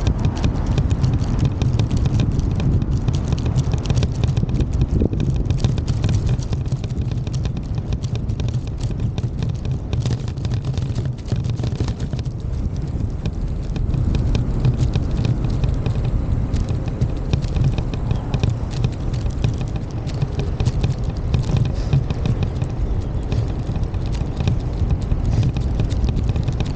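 Footsteps of a person walking, with a steady low rumble of wind and handling noise on the microphone.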